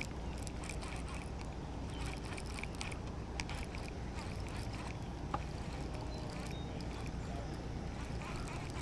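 Ambient sound aboard a small fishing boat on a lake: a steady low rumble of water and air around the hull, with scattered light clicks and ticks.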